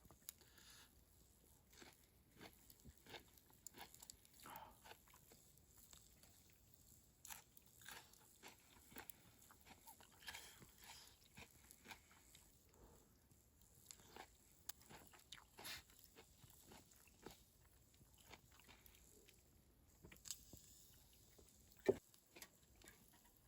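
Faint eating sounds: chewing and biting into wood-fire grilled chicken skewers, with scattered soft crunches and mouth clicks. One sharper click comes near the end.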